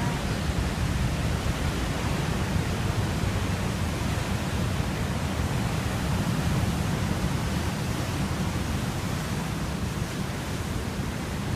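Ocean waves and surf: a steady rushing noise with a heavy low rumble.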